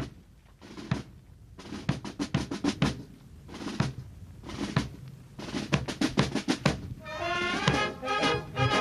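Ceremonial band music: snare drum rolls and bass drum beats in short bursts with pauses, then brass instruments come in with held notes near the end.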